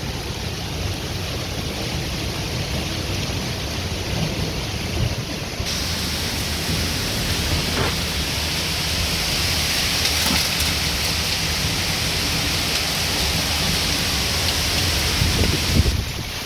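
Heavy downpour in a windstorm: a dense rain hiss over a low rumble. About six seconds in the hiss turns brighter and heavier, and it drops back sharply near the end.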